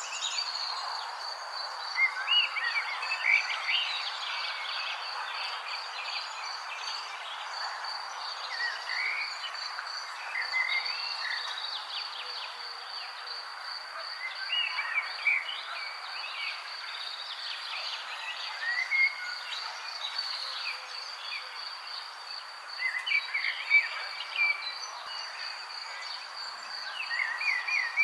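Songbirds chirping in short, scattered calls and trills over a steady, high-pitched pulsing insect trill, with a constant hiss of outdoor ambience underneath.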